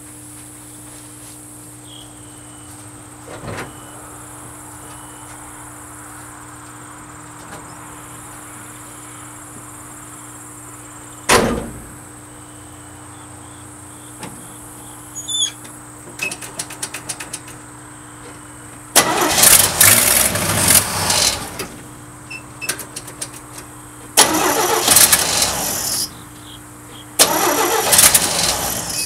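Starter cranking the engine of a 1972 Chevrolet Custom 10 pickup in three tries of about two seconds each, the engine not catching between them. Earlier there is a single knock, and a little later some light clicking.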